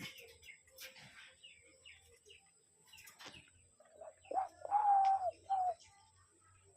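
Spotted dove cooing: a short phrase of low coos about four seconds in, with a longer held note in the middle, after faint scattered clicks and chirps.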